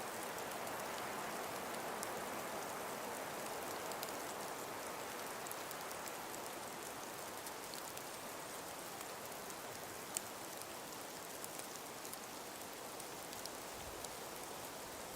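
Calm winter wind through a frosted forest: a soft, steady rush with faint scattered ticks and one sharper click about ten seconds in.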